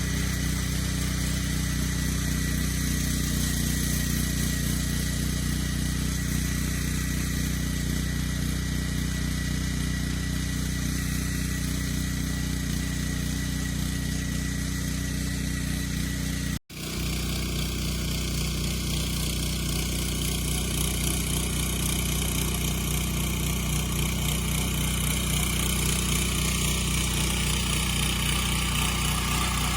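Walk-behind tractor (motoblock) engine running steadily, breaking off for an instant just past halfway and then running on.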